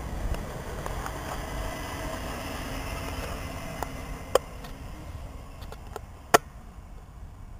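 A South West Trains electric multiple unit passing a station platform and running away from it: a steady rumble of wheels on rails that fades as the train recedes. Two sharp clicks come about halfway through and again near three-quarters.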